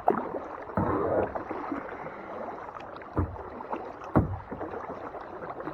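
Kayak paddling on a lake: water splashing and dripping off the paddle blades, with a few sharper splashes or knocks now and then.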